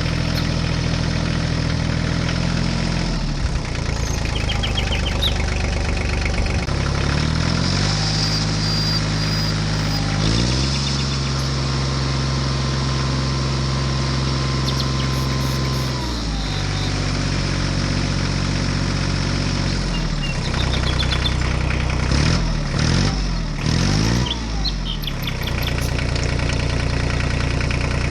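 Tractor engine running, its pitch stepping up and down several times as it revs, with a long raised stretch in the middle and quick up-and-down swings near the end. Occasional bird chirps over it.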